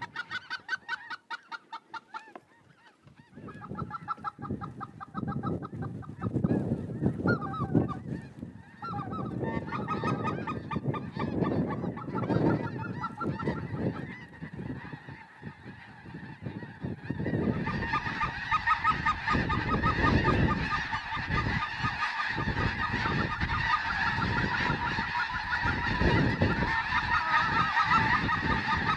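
A flock of snow geese calling overhead, scattered honks at first that build about two-thirds of the way in into a dense, continuous chorus of many birds.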